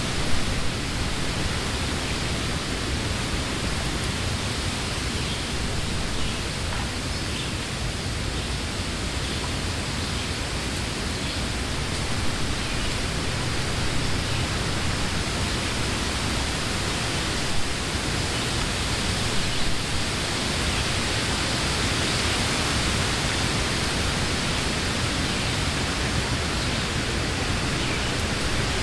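Wind blowing steadily through the leaves of trees, a continuous rushing hiss with a few brief small knocks or gusts.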